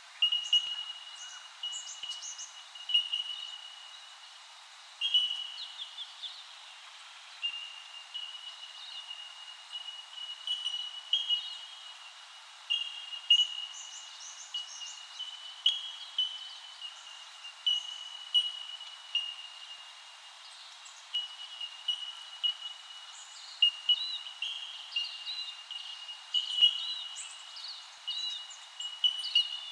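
Wild birds chirping and calling, with many short notes coming irregularly over a steady, high-pitched drone.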